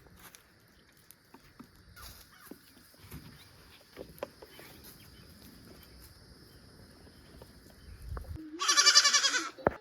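A young goat bleats once, loud and wavering, near the end, after several seconds of faint clicks and rustling.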